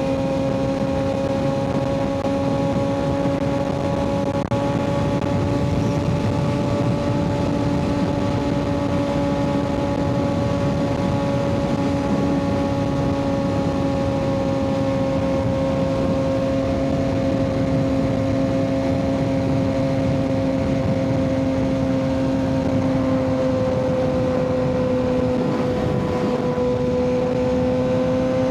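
Kawasaki ZX-6R 636's inline-four running through an aftermarket M4 exhaust, cruising at a nearly constant engine speed, with wind and road noise underneath. The pitch sags slightly near the end, then recovers.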